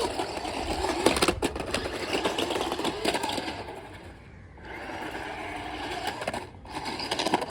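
Electric motor and gear train of a 1:16 scale 4WD RC drift car whining as it is driven at speed, the pitch rising and falling with the throttle. It eases off about four seconds in, then picks up again.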